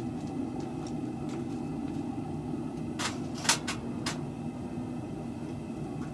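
A steady low rumble, with three sharp knocks about halfway through, the second one the loudest.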